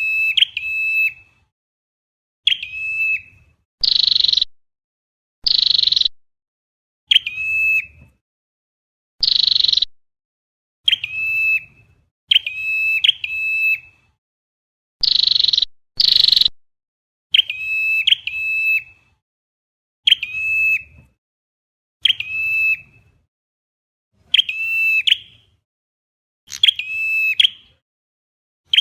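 Looped lure recording of a red-headed flowerpecker calling, the kind played to draw the bird into a trap. It repeats sharp high chip notes, alternating with louder, harsher buzzy notes, about one call every second and a half.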